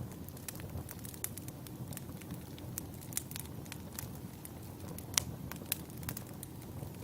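Wood fire crackling: scattered sharp pops and snaps of burning firewood over a steady low rumble of the flames, with one louder pop about five seconds in.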